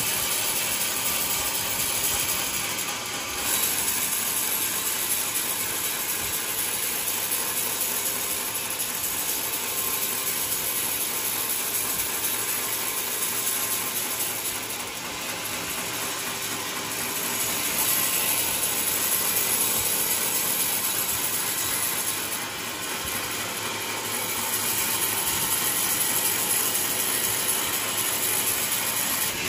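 Large sawmill saw cutting through a coconut log, a continuous rasping, grinding mechanical noise that dips briefly a few times.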